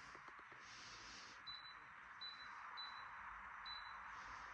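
Electronic oven control panel beeping as its buttons are pressed to set it: four short, high beeps at uneven spacing over a faint steady hiss.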